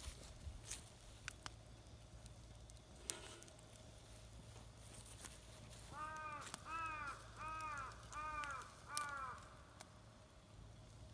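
A crow cawing five times in quick succession, each caw about half a second long, about six seconds in. A few faint sharp clicks come before the calls.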